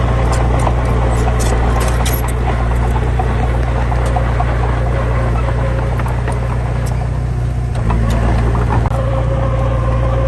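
Heavy diesel machine engine running steadily under load, with scattered clicks and rattles; its low note shifts slightly about eight seconds in.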